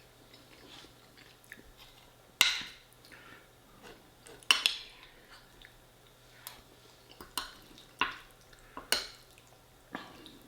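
Cutlery clinking against a dish while eating, about half a dozen sharp clinks spaced a second or two apart. The loudest come about two and a half and four and a half seconds in.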